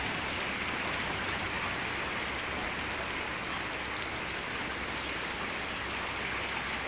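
Steady rain falling on surfaces: an even, unbroken hiss, the storm eased from a downpour to ordinary rain.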